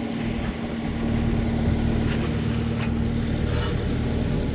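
An engine running steadily with a low hum and rumble, likely the lifting machine used to pull the transmission.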